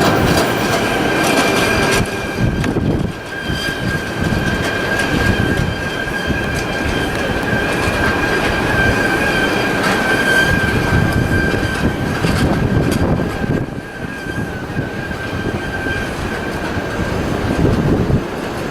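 A boardwalk tram car passing close by, its wheels rumbling over the planks, with a steady high whine that fades away near the end.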